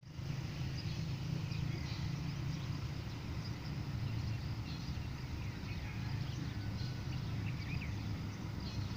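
HBU20 diesel-electric locomotive running with a steady low rumble, with many short bird chirps over it.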